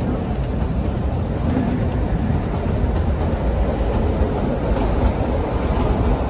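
Narrow-gauge toy train coach running along the track, a steady low rumble heard from beside the open coach door.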